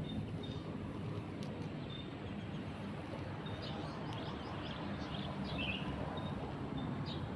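Steady background noise with birds chirping: a run of short, high chirps about four to six seconds in, and one more near the end.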